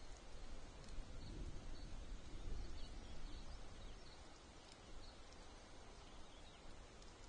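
Faint outdoor ambience: a low rumble under a string of short, high chirps repeating about twice a second.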